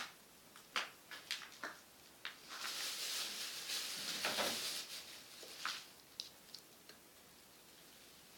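Scattered sharp clicks and light knocks, with a few seconds of hissing rustle in the middle: handling noise from work on a washing machine.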